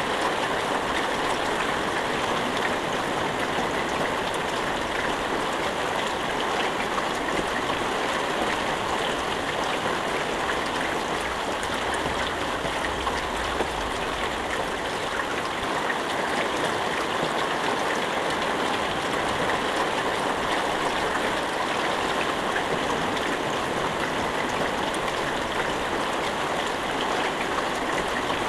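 Steady rain falling without thunder, an even hiss of many drops with no change in intensity.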